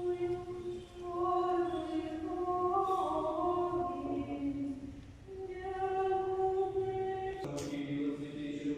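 Choir singing slow Orthodox liturgical chant a cappella, in long held notes that move to a new pitch every second or two.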